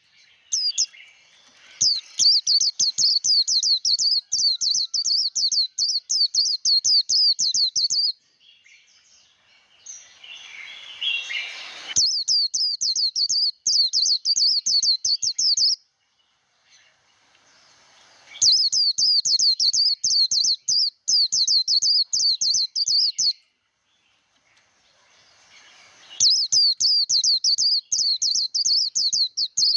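White-eye singing the rapid, high 'líu' song in four bursts of several seconds each, with short pauses between them.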